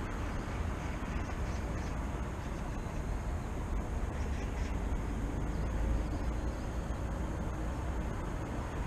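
Steady city background noise: a continuous low rumble of distant traffic.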